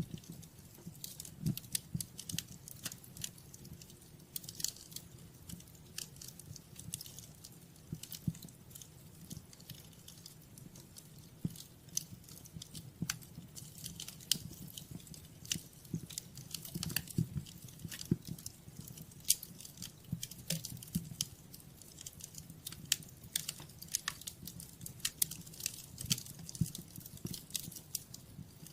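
Wood fire crackling in a fireplace, with many irregular sharp pops and snaps over a steady low rumble.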